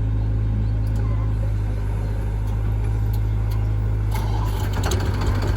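Heavy diesel engine of a tractor or backhoe loader running steadily at low speed, with scattered clattering joining in about four seconds in.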